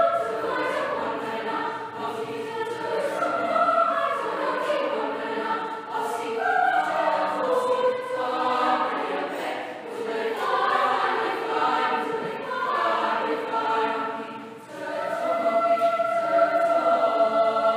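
Middle-school treble choir singing in harmony in short phrases, ending on a long held chord over the last few seconds.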